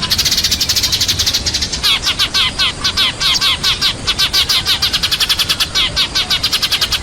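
Sparrows chirping in a rapid, near-continuous run of short high calls, many per second: the flock-calling chatter used as a lure to draw other sparrows in.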